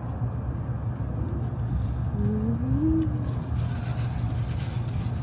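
Steady low hum inside a Shinkansen bullet-train passenger car, with a brief faint rising tone about two seconds in.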